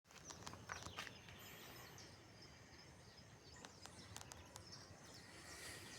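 Faint birds chirping and calling, many short notes, over quiet outdoor background noise.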